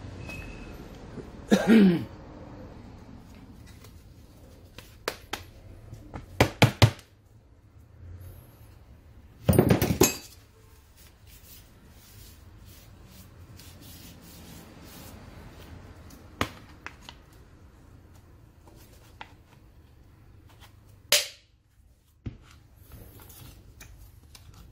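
Metal grinder parts and hand tools being handled on a workbench: scattered knocks and clinks, a short squeak falling in pitch about two seconds in, and a louder scraping clatter about ten seconds in.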